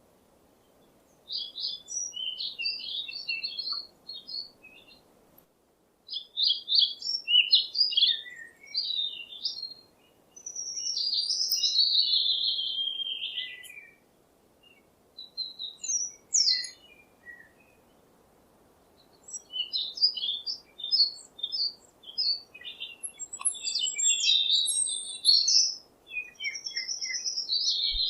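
A songbird singing: phrases of rapid, high chirps and trills a few seconds long, separated by short pauses, over a faint low background hum.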